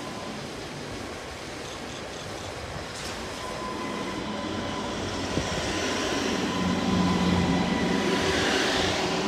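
Class 230 D-Train, a converted ex-London Underground D78 stock unit, running along the platform. The steady hum of its diesel-electric power units and its wheel noise grow louder as it draws level about two-thirds of the way in, with a steady high whine throughout and a hiss near the end.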